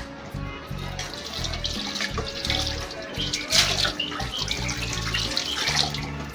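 Tap water running into a sink, over background music with a steady bass line.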